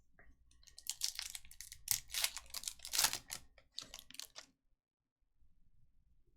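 Chrome trading cards handled by hand, flicked and slid against each other in a quick run of crisp clicks and rustles that stops about four and a half seconds in.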